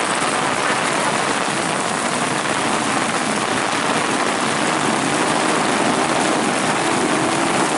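Steady hiss of heavy rain, with motorcycle engines faintly revving and falling under it from about halfway through.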